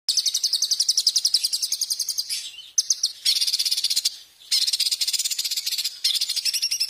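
Songbird recording used as masteran (training song for caged birds): a loud, fast trill of high repeated notes, about fifteen a second, in several phrases broken by short pauses.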